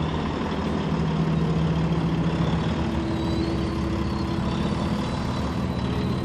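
Heavy rally trucks' diesel engines idling at the start line, a steady low engine hum.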